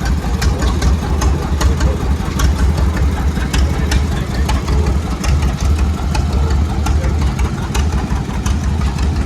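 Old stationary gas engines and tractors running, a steady low engine rumble with irregular sharp ticks and clatter over it.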